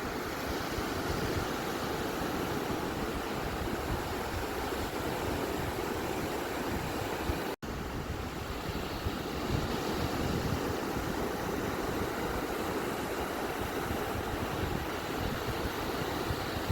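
Steady, even wash of beach surf. The sound cuts out completely for an instant about seven and a half seconds in, then resumes unchanged.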